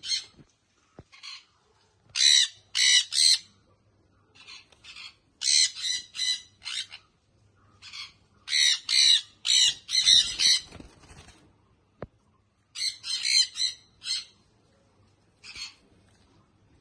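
Baby sun conure squawking: harsh, high calls in quick clusters of two to five, with short pauses between them.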